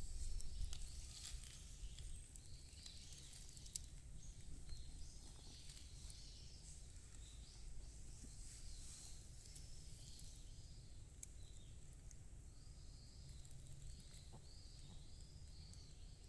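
Wild birds calling: faint, short chirps and twitters repeating throughout, with a quick run of them near the end, over a low rumble.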